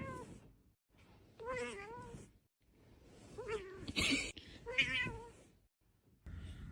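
A cat meowing four times, long, wavering, yowling calls, with a short rush of noise about four seconds in. Near the end the sound changes to a steady low hum.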